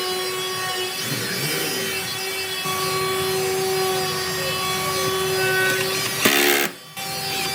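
A power tool running steadily as it works wood, with a brief louder burst about six seconds in before the sound drops away for a moment.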